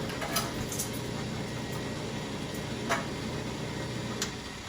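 Fritters frying in hot oil in a pan, a steady sizzle, with three light clicks of a utensil against the pan.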